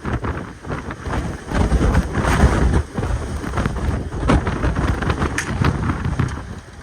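Gusty wind buffeting the microphone, a loud, uneven rumble that surges and eases.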